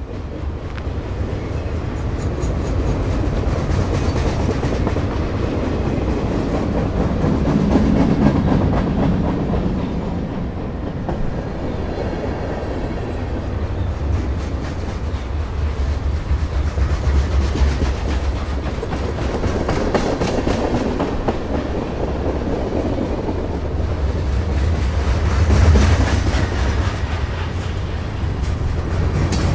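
Electric commuter train running past close by at speed: a loud, continuous rumble of wheels on the rails. It swells as it arrives and peaks again about 8 and 26 seconds in.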